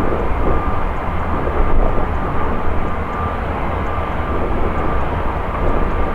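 Jet airliner engines running: a steady, loud rumble with a faint high whine held over it.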